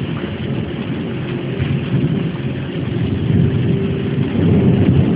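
Thunder rumbling over steady rain, the rumble swelling in the second half.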